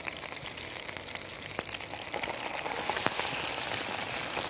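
Stuffed chicken roll frying in a pan: a steady sizzle with scattered crackles and pops, which grows louder about three seconds in.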